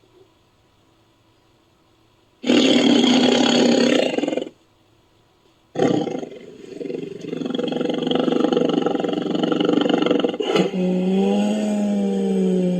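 Bengal tiger roaring: one roar of about two seconds, then after a short pause a longer, loud roar that runs on to the end. Near the end a steady pitched tone sounds along with it.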